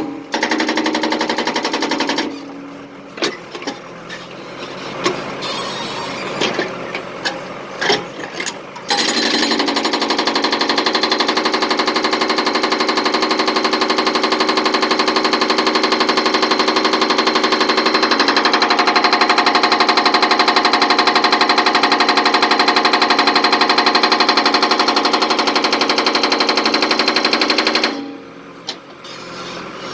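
Jackhammer on demolition work. A short run of hammering comes first, then a few seconds of scattered knocks, then a long stretch of steady, rapid hammering that stops near the end.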